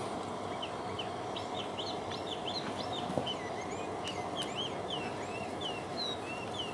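Small birds chirping in the background: many short, high chirps that rise and fall, several a second, over a steady low hum. One soft knock about three seconds in.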